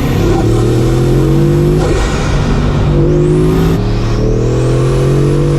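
Bugatti Mistral's 8.0-litre quad-turbocharged W16 engine accelerating hard. The engine note shifts in pitch in steps about every two seconds, like gear changes.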